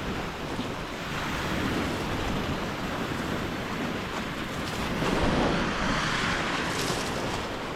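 Lake Superior waves washing onto the beach, the surf swelling louder about a second in and again around five seconds in.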